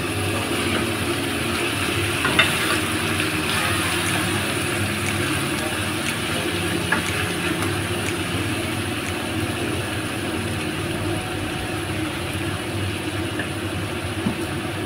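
Raw chicken pieces frying in a hot pan, a steady sizzle, with a few clicks of a wooden spatula against the pan as they are stirred.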